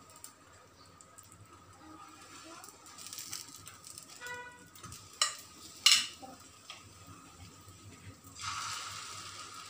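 Bread frying in oil on a flat tawa over low heat, with a faint sizzle. Two sharp clinks of a spoon on dishes come about five and six seconds in. Near the end the sizzle grows louder as egg batter is spooned into the bread.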